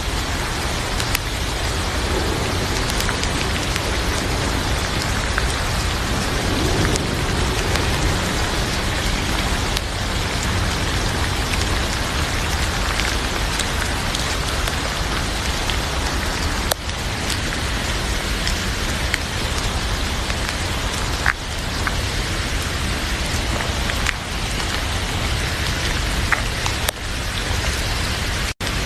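Heavy rain falling steadily on a surface, with a few sharp crackles from a fireplace fire scattered through it. The sound cuts out for an instant near the end.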